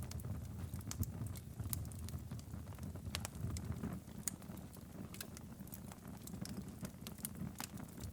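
Wood fire crackling and popping in a fireplace: irregular sharp snaps over a steady low rumble.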